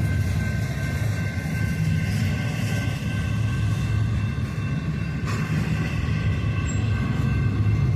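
Intermodal freight cars rolling past, a steady rumble of wheels on rail with a steady high ringing over it.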